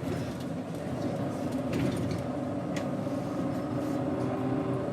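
Daewoo BS110CN bus's Doosan GE12Ti natural-gas engine running with a steady drone, with a couple of sharp clicks about two and three seconds in.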